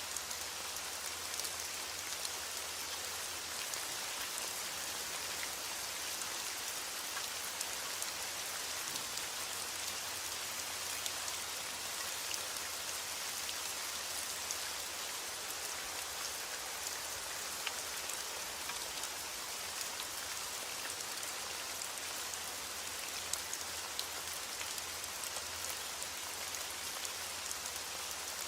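Steady rain falling, a constant hiss dotted with many small ticks of individual drops striking a surface.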